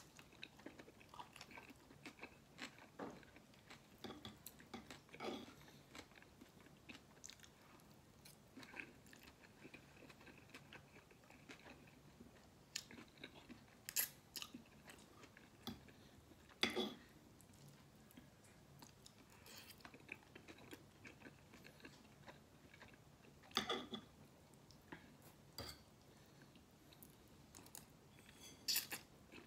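A person chewing and slurping stir-fried noodles close to the microphone: soft, wet mouth sounds and small irregular clicks, with a few sharper, louder clicks now and then.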